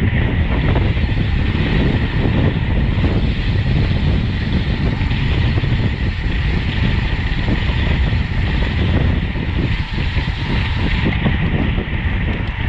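Steady wind rush on the microphone of a camera riding in a road bicycle race, heaviest in the low end, over a constant road and tyre hiss.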